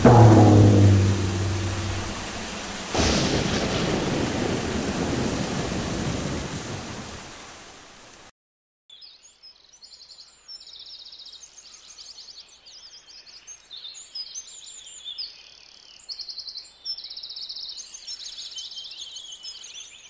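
Stock storm sound effects: heavy rain and thunder, with a tone that slides down in pitch at the start and a sudden thunder crack about three seconds in, fading out and stopping about eight seconds in. Then birds chirping in quick repeated high calls.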